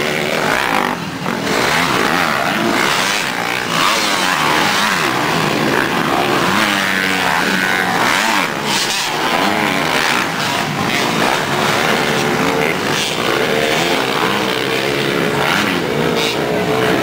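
Motocross bike engines revving up and down, several at once, their pitch rising and falling over and over.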